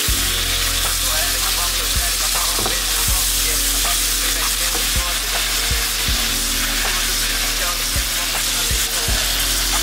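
Burger patties and onions sizzling steadily as they fry in a hot pan, with low bass thumps underneath.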